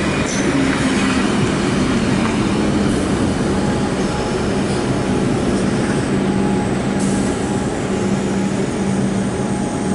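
A passenger train running close by, with a loud steady rumble of wheels on rail over a steady low drone.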